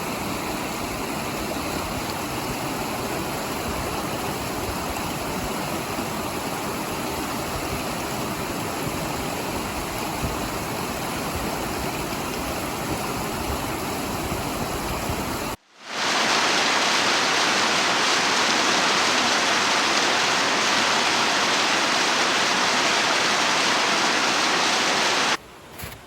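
Mountain stream rushing steadily over rocks. About 15 seconds in the sound drops out for a moment, then a louder, hissier stretch of rushing water follows and stops abruptly near the end.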